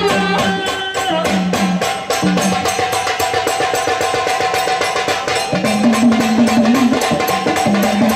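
Instrumental passage of Marathi gondhal folk music: fast, dense drumming under a held melodic line.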